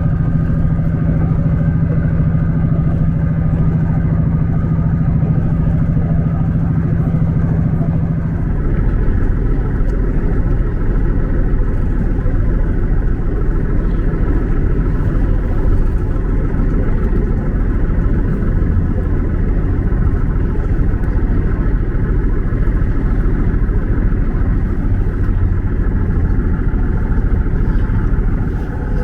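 A vehicle engine running, heard from inside the vehicle. A steady hum gives way about eight seconds in to a deeper, rougher rumble.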